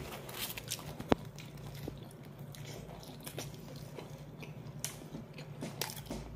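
Close-up chewing and biting of a slice of kebab pizza, with soft crunches and small mouth clicks. One sharp click about a second in.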